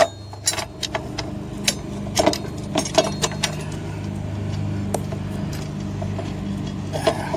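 Scattered sharp metal clicks and clinks as a bolt, lock washer, flat washer and steel step-rail bracket are handled and fitted against a pickup's frame, over a steady low hum.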